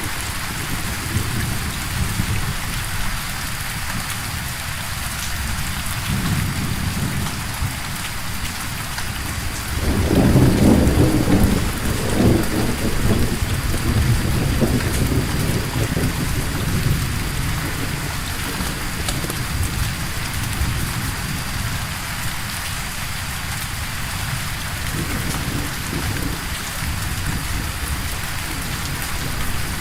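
Steady rainfall with a deep rumble of thunder that swells about a third of the way in and fades over several seconds.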